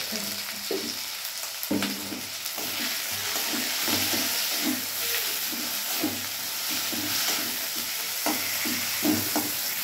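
Masala of tomato, onion and turmeric sizzling in a metal kadai while a flat metal spatula stirs and scrapes it against the pan in repeated strokes. The masala is being fried down (kashano) until cooked.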